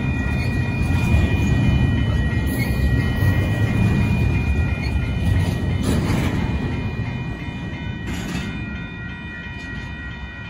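The tail end of a Union Pacific double-stack intermodal freight train rolling past a grade crossing, its wheels rumbling and clattering on the rails, with the crossing bell ringing steadily. The rumble fades away over the last few seconds as the final cars pull clear.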